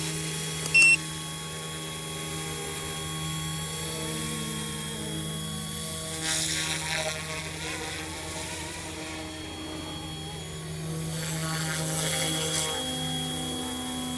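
Eachine E188 brushless RC helicopter in flight: a steady electric motor and rotor whine that swells twice as it passes closer. A short electronic beep about a second in.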